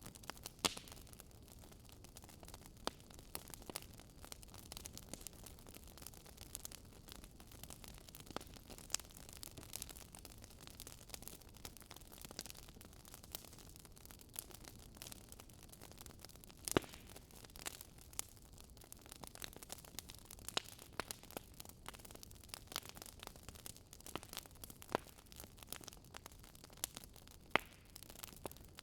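Fireplace crackling: a soft steady hiss with irregular sharp pops and snaps, one louder pop about seventeen seconds in.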